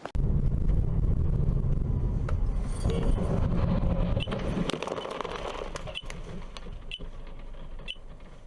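Car engine and road noise rumbling, heard from inside a vehicle, easing off about halfway through. In the second half, short high chirps come roughly once a second.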